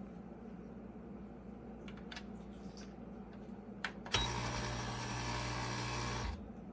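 Compact 20-bar espresso machine's pump buzzing steadily for about two seconds, then cutting off suddenly, after a few light clicks.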